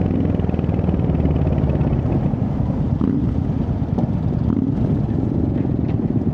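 Royal Enfield Hunter 350's single-cylinder engine running steadily under way, with a few faint clicks in the middle.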